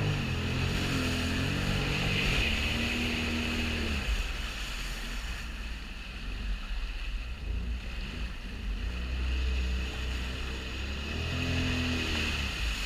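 Sea-Doo jet ski engine running under way, its pitch rising and falling with the throttle; it eases off for several seconds in the middle and picks up again near the end. A steady hiss of wind and water runs under it.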